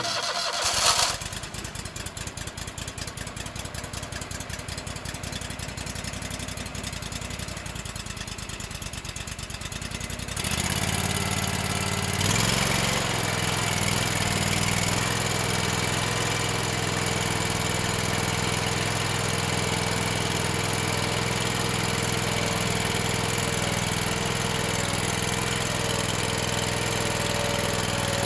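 Small engine of a rented stump grinder, just started, running at a low, pulsing idle; about ten seconds in it is throttled up and runs steadier and louder.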